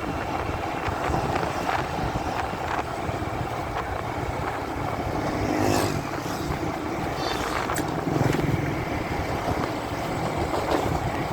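Motorcycle riding noise picked up by a phone in the rider's pocket: muffled engine, wind and road noise, with cloth rubbing over the microphone and a few scrapes about halfway through.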